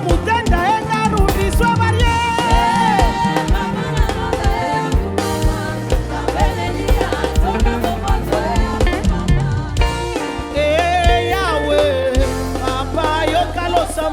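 A live praise band playing an upbeat African gospel song: a drum kit with steady kick and snare, bass, and melodic lines with some singing.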